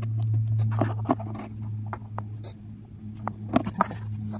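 Small irregular clicks and taps of plastic Play-Doh tools and pieces being handled while modelling, over a steady low hum.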